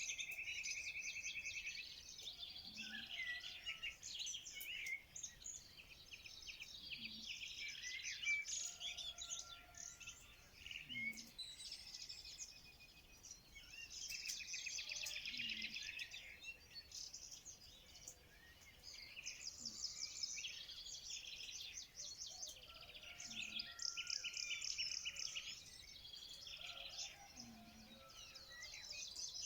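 A dense chorus of many songbirds singing and chirping at once, with rapid trills and overlapping calls. A faint low note recurs about every four seconds beneath them.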